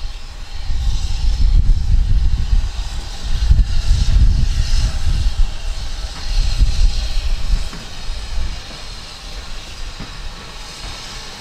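A train running past, a loud uneven rumble with a hiss above it that dies away about eight seconds in.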